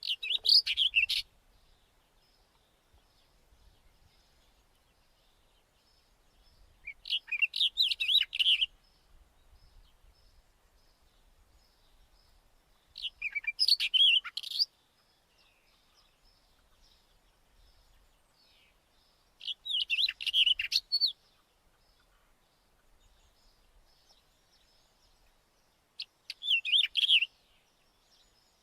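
White-tailed wheatear singing: five short, warbled song phrases of about a second and a half each, spaced roughly six seconds apart.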